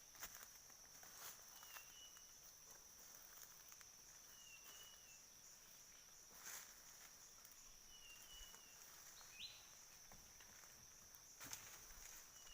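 Faint, short two-note chirp of a siri-siri bird call, repeating every three to four seconds in the same form each time, as from a looping lure recording. A steady high insect drone runs underneath.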